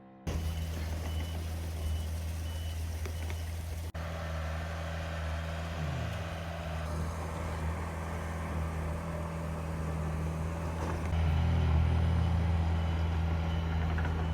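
A heavy vehicle's engine running steadily, its pitch shifting briefly a couple of times, with a vehicle reversing alarm beeping over it near the start and again near the end.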